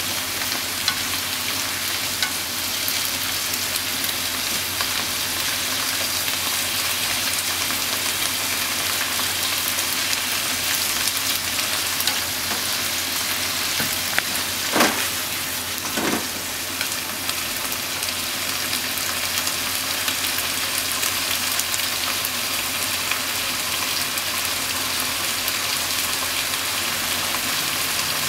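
Sliced pork and onion sizzling steadily as they are stir-fried in a frying pan and turned with chopsticks. Two sharp knocks come about halfway through, a second or so apart.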